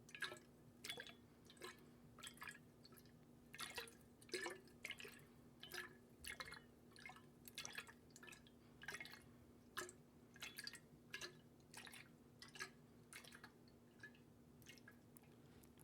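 Soft, close-miked water drops falling into water, in an irregular run of about two drips a second, some with a brief plinking pitch.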